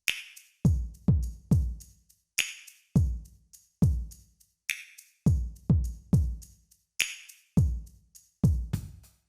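Boss DR-01S rhythm machine playing a factory preset hand-percussion groove: deep low thumps that drop in pitch, light clicks between them, and a sharper accent about every two seconds.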